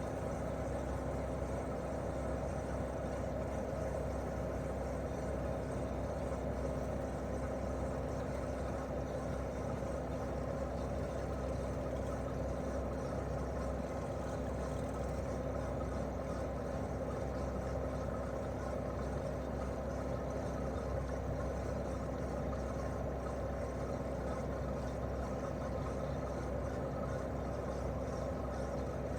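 Daikin R28RMV mini-split outdoor unit running steadily in heating mode: its twin-cylinder swing compressor and fan give an even hum with one constant tone and no change in speed.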